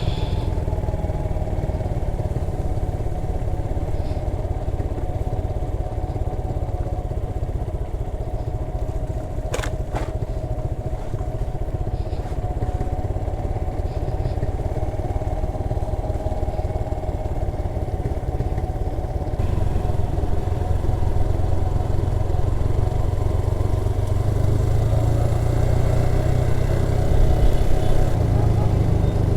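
Motorcycle engine running steadily in a low gear, engine braking down a steep, muddy descent. A single sharp knock about ten seconds in, and the engine gets a little louder in the second half.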